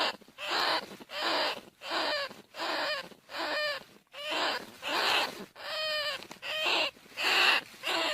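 Bandicoot rat calls: a steady series of short, harsh pitched squeals repeated about every half second to second, some falling in pitch at the end.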